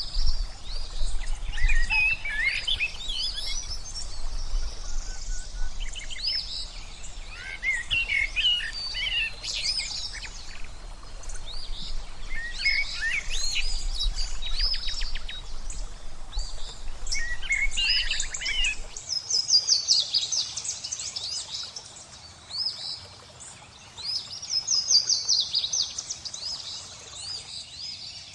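Songbirds chirping and singing in many short calls and rapid trills, over a steady background of flowing water. A low rumble underneath stops about two-thirds of the way through.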